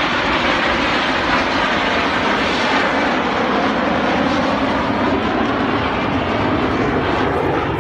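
Aircraft engine noise from a fixed-wing plane flying past, a loud steady rushing sound with a faint slowly gliding pitch.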